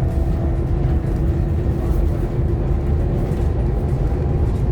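Scania K230UB OmniLink bus under way, heard from inside the saloon: a steady diesel engine drone with road rumble and a held hum under it.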